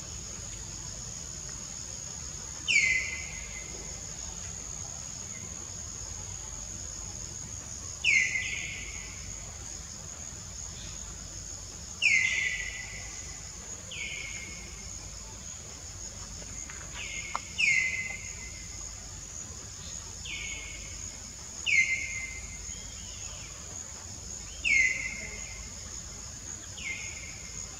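A bird calling again and again: about ten short, sharp calls a few seconds apart, each sliding quickly downward in pitch. Under them runs a steady high-pitched drone of insects.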